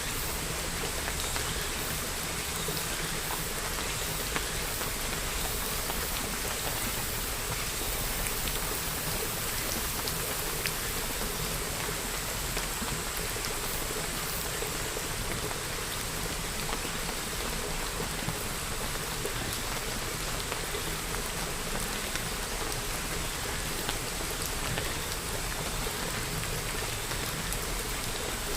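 Steady rainfall, an even hiss with many small drops pattering on a surface.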